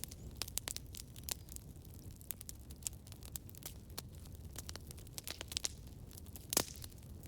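Campfire crackling: wood popping and snapping at irregular intervals over a low, steady rumble of the flames, with one louder pop about six and a half seconds in.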